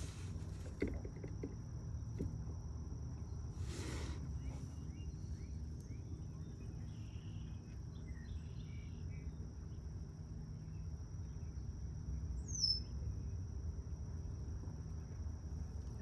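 Outdoor ambience of a steady high insect trill, like crickets, over a low rumble. A brief rustle comes about four seconds in, and a single short falling bird chirp about three-quarters of the way through.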